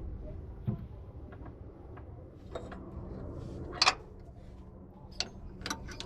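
Scattered light metallic clicks and taps of a hand tool on brake-line fittings as an old rubber brake line is taken off, the loudest knock about four seconds in, over a low steady hum.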